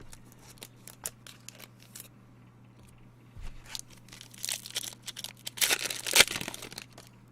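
Foil wrapper of a trading-card pack being torn open and crinkled, with a few light clicks from handling cards at first; the crinkling is loudest about six seconds in.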